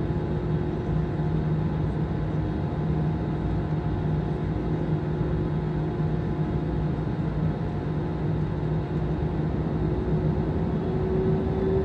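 Airbus jet airliner's cabin noise on the ground before takeoff: a steady engine rumble with several steady tones, one of them rising slightly near the end.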